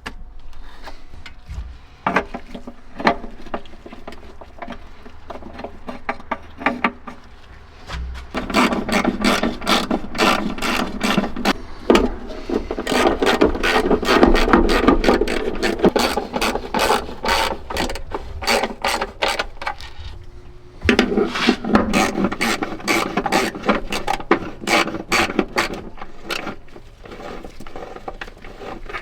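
Hand ratchet wrench clicking as valve cover bolts are turned: a few scattered clicks at first, then long runs of rapid clicking with a short pause about two-thirds of the way through.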